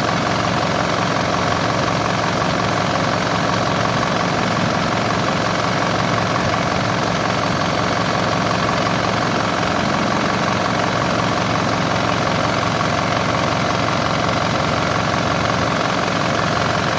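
Bus engine idling steadily, with no change in speed.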